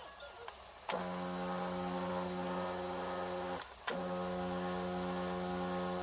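Kärcher K4 Compact electric pressure washer motor starting with a click about a second in and running with a steady hum, cutting out briefly after about two and a half seconds, then starting again and running on.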